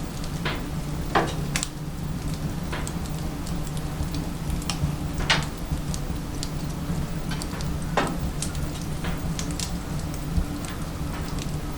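Firewood burning in a wood-burning stove, crackling with sharp, irregular pops. The louder pops come about a second in, at about five seconds and at about eight seconds, over a steady low hum.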